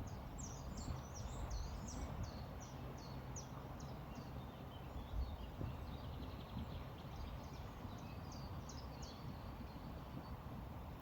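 A small songbird singing a quick series of about a dozen short, high, down-slurred notes, then a second shorter burst later on, over the steady low rush of a flowing river.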